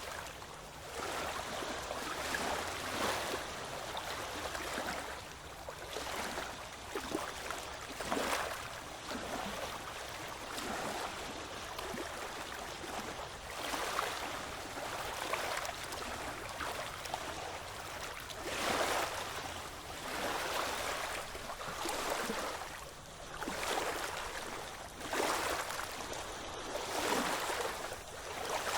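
Ocean waves washing in, a continuous rush of water that swells and recedes in irregular surges every few seconds.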